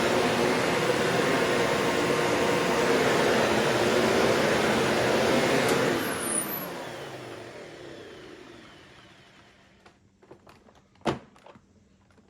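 Simplicity 7 Series bagged upright vacuum cleaner running steadily, then switched off about six seconds in, its motor whine falling in pitch as it winds down over several seconds. A single sharp knock comes about eleven seconds in, with a few small ticks around it.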